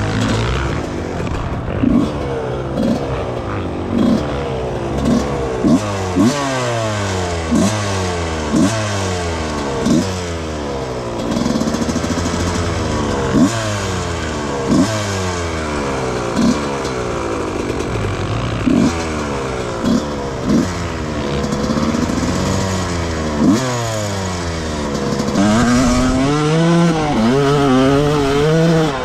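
1995 Yamaha YZ125 single-cylinder two-stroke engine revved again and again in short braps, its pitch climbing and falling with each blip. Near the end it holds a higher, wavering note.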